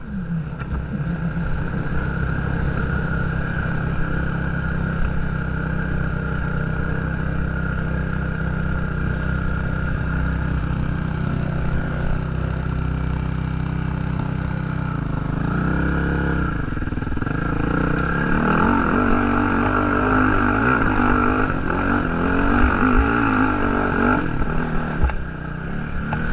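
Motocross dirt bike engine running, steady at first, then rising and falling in revs from a little past the middle as the bike is ridden.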